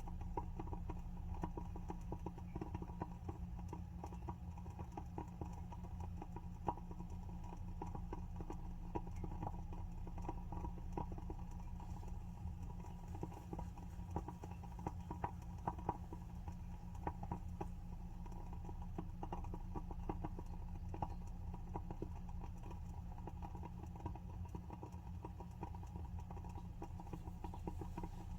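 WoodWick candle's wooden wick crackling as it burns: a continuous run of small, irregular pops and ticks over a steady low hum.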